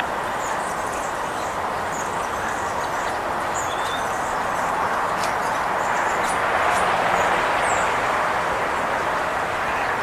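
Steady rush of distant road traffic, swelling a little past the middle, with small birds giving short, faint chirps over it.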